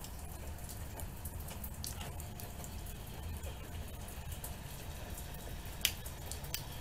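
Rain falling during a thunderstorm, with individual drops ticking close by over a steady low rumble; one sharper drip stands out about six seconds in.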